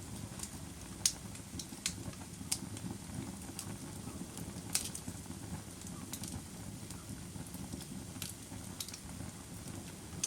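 Fire crackling: irregular sharp pops and snaps, a few of them louder, over a steady low rumble of burning.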